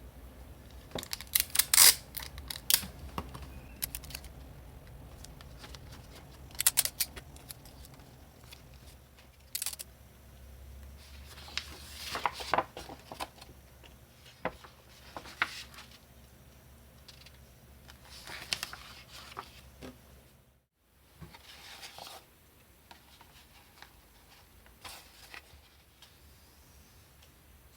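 Construction paper and card stock being handled at a table: scattered clicks, taps and rustles in short clusters, loudest about two seconds in.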